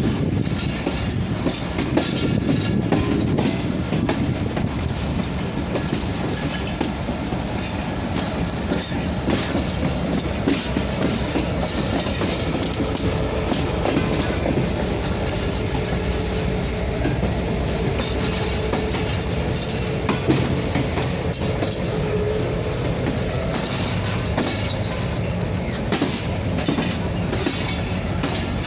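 Train running along the track: a steady rumble with the clickety-clack of wheels over rail joints. A faint wheel squeal comes in about halfway through.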